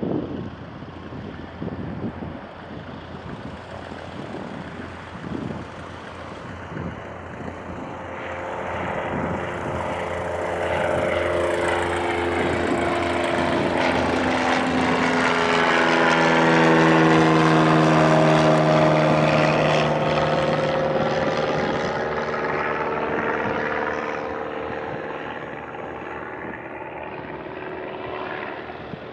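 Propeller airplane flying past: its engine and propeller drone grows louder, peaks about two-thirds of the way through, and drops in pitch as it passes, then fades. Wind buffets the microphone in the first seconds.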